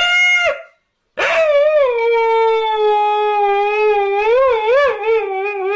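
Dog howling: a short howl breaks off, then after a brief gap one long howl slides down in pitch, holds steady and wavers up and down near the end.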